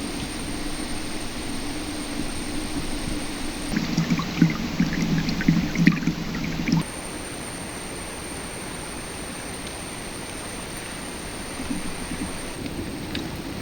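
Shallow river water running with a steady rush. From about four seconds in, a stretch of louder clicks and crackles sits over it, stopping abruptly about seven seconds in.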